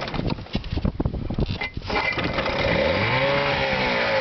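The two-stroke engine of a 1976 Chrysler 8 hp outboard motor. It runs unevenly at first, settles into a steady run about two seconds in, and is revved up and back down near the end.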